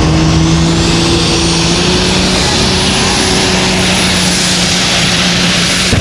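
Tractor engine running steadily at high revs, with a high whine that rises over the first two seconds and then holds.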